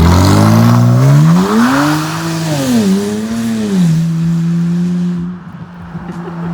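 Straight-piped BMW 335i's twin-turbo N54 straight-six, open from the turbo back with only catless downpipes, revving loudly. The engine note climbs steeply, falls back, climbs again and then holds a steady drone that drops in level near the end.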